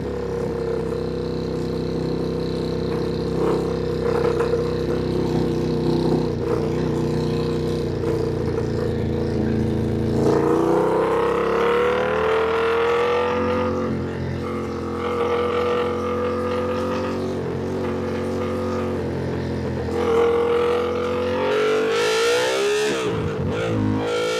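Ducati Panigale V2's 890 cc V-twin engine heard from on board while riding. It holds steady revs for about ten seconds, then the pitch rises as it accelerates, and near the end the revs dip sharply and climb again.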